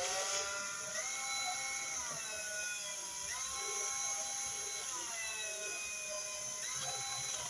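Electric drill running with a steady whine whose pitch dips and recovers several times as the bit bites into the material while drilling a hole.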